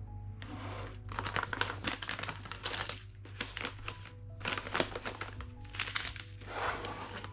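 Crinkling and rustling of packaging being handled in several bursts, over soft background music.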